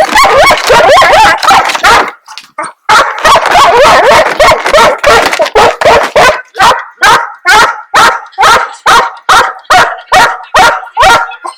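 Bird dogs barking and yipping: a dense run of overlapping barks for about two seconds, a short pause, then more barking that settles into steady single barks about two a second.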